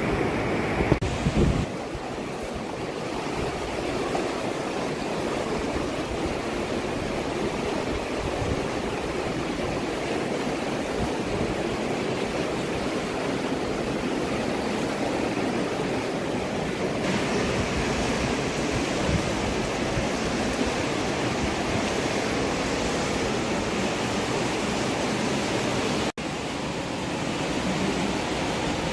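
Fast-flowing river rushing steadily, a dense noise of water, broken by a split-second dropout near the end.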